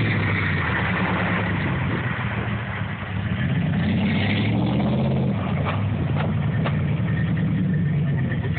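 Truck engine running under load, its pitch dropping about three seconds in and then picking up again, with a few sharp knocks near the middle.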